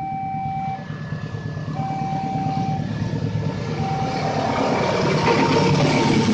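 A train approaching, its rumble growing louder over the last two seconds. Over it, a beeping warning tone sounds for under a second about every two seconds.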